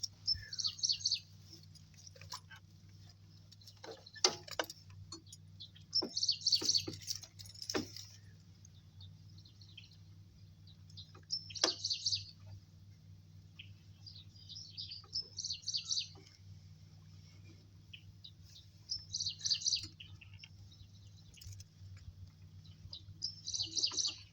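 A songbird singing short bursts of high chirps, repeated every few seconds, with a few light knocks between phrases and a faint steady low hum underneath.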